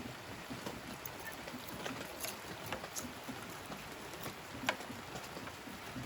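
Heavy rain falling steadily, with a few sharp taps scattered through it.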